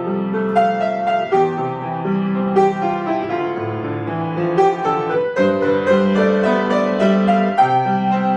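Solo piano being played: a steady flow of sustained chords and melody notes, with new notes struck every fraction of a second.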